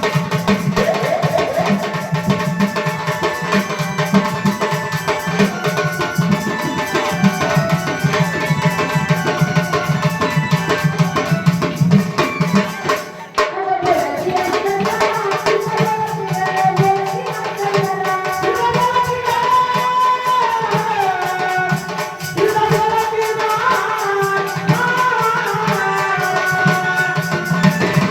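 Marathi devotional story-song: a woman's voice singing a melodic line over tabla and small percussion, with a short break in the sound about halfway through.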